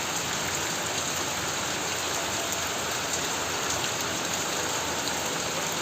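Heavy rain falling steadily on a corrugated tin roof, a dense even hiss with scattered drop ticks.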